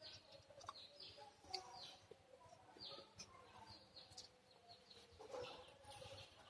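Faint bird chirping: many short, high chirps that fall in pitch, scattered through the quiet.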